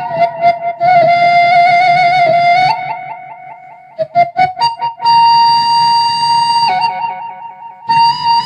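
Sundanese suling bamboo flute playing a slow melody of long held notes joined by quick ornamental turns. A plucked kecapi zither accompanies it, with a run of plucked notes about halfway through.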